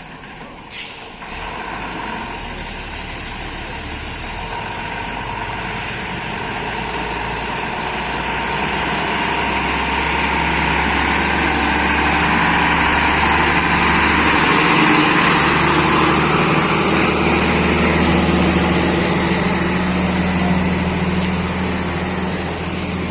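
Truck engine running steadily and growing louder over the first half, with a sharp click about a second in.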